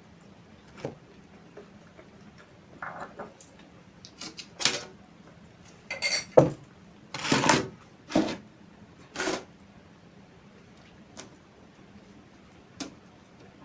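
Close-miked eating sounds: a person chewing and handling food, with scattered clicks and clinks of dishes. The sounds come irregularly, busiest in the middle, where a sharp click about six seconds in is followed by the longest and loudest noisy stretch; a few lighter clicks come near the end.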